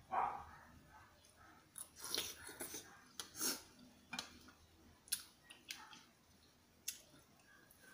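Close-miked eating: a man chewing mouthfuls of soup, with sharp clicks of a metal spoon against a ceramic bowl. A dog gives a short bark right at the start.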